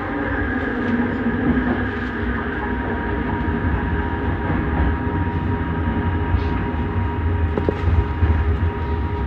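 Bombardier Innovia Metro 300 train heard from inside the car while running between stations: a steady low rumble with a constant high tone above it, and a few faint clicks.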